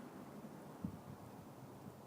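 Exhaust note of a 2011 Mustang V6 with a Borla ATAK exhaust fading faintly into the distance, with a short low thump just under a second in.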